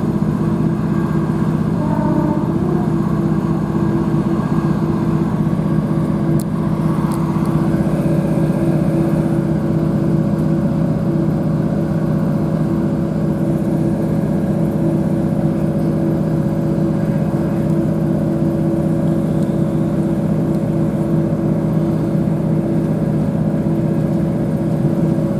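Class 156 Super Sprinter diesel multiple unit under way, heard from inside the carriage: the steady drone of its underfloor Cummins diesel engine and transmission, with a higher steady tone joining about six seconds in.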